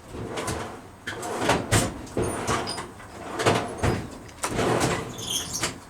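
A metal hook tool scraping and prying at an old oil seal in a differential housing, working it loose in a run of irregular rasping strokes with a few small metallic clicks.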